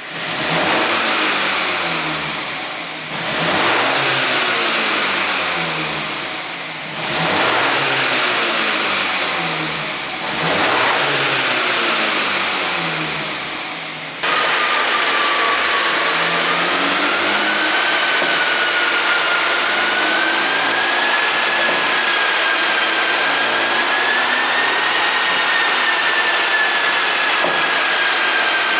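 BMW 430i's turbocharged four-cylinder engine, ECU-tuned for exhaust pops, revved four times, each rev rising and falling over about three and a half seconds. About halfway through, the sound switches suddenly to a steady, loud rushing noise with a high whine that slowly wavers in pitch.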